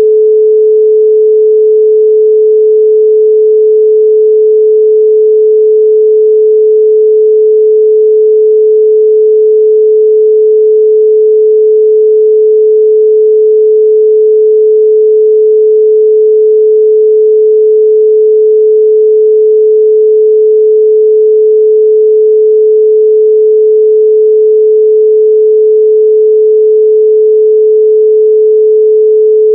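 A steady, loud 432 Hz pure sine tone, one unchanging pitch with no overtones.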